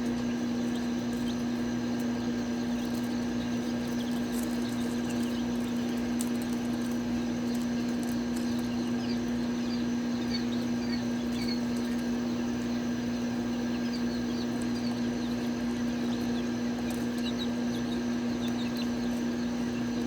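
Chicks peeping in many short, high chirps, scattered and thicker in the second half, over a steady low hum.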